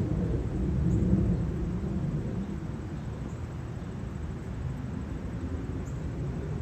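Low rumbling wind buffeting on the microphone of a camera moving along on a bicycle, easing off somewhat in the middle.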